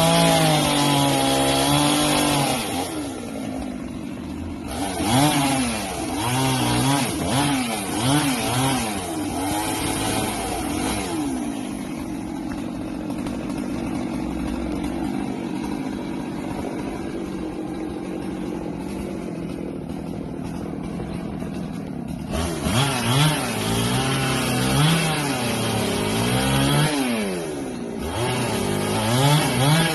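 Husqvarna 390 XP two-stroke chainsaw revving up and down over and over, settling to a steady idle for about ten seconds in the middle before revving again near the end.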